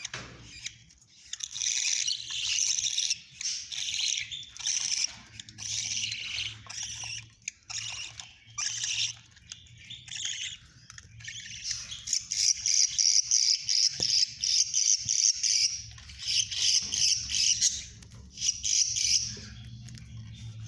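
Budgerigar chicks chirping: rapid, high-pitched calls in bouts with short pauses, busiest in the second half.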